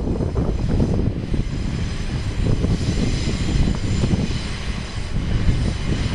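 BNSF freight train passing, its diesel locomotives and rolling cars making a steady low rumble, with a faint steady high whine above.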